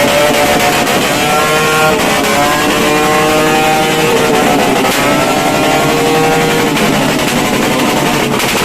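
Loud, continuous New Year's Eve noise: several pitched whines that rise and fall over one another on top of a steady hiss with fine crackling.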